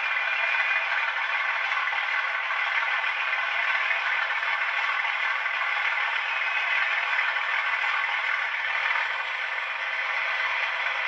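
Locomotive 37 418's diesel engine running steadily, a dense even mechanical noise with some clatter, easing slightly about nine seconds in.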